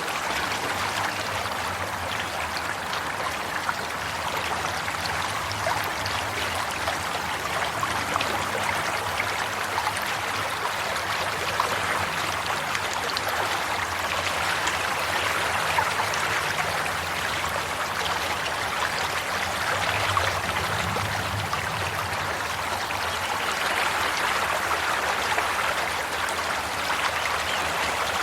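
Water flowing in a stream, a steady rush with fine trickling and splashing that swells gently now and then.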